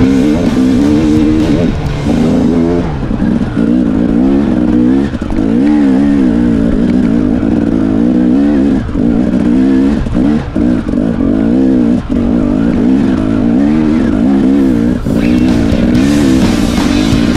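Dirt bike engine revving up and down as it climbs a rough trail, its pitch rising and falling every second or so.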